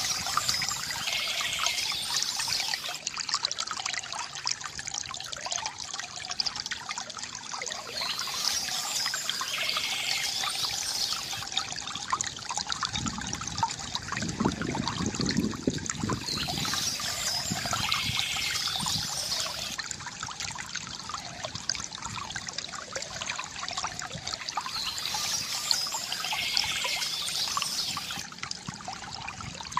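Water trickling and gurgling steadily from a bamboo fountain, with a deeper gurgle about halfway through. Birds chirp in short spells that come back about every eight seconds.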